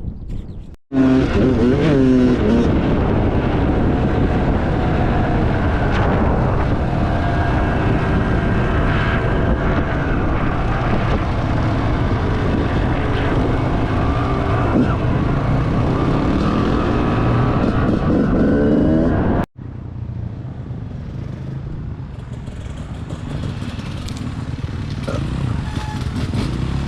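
Dirt bike engines revving up and down as the bikes are ridden, the pitch rising and falling with the throttle. The sound cuts out abruptly twice, and after the second break it runs quieter and steadier.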